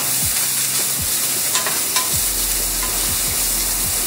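Chopped onion sizzling in hot oil in a non-stick frying pan. It is stirred with a wooden spatula that knocks and scrapes against the pan a few times.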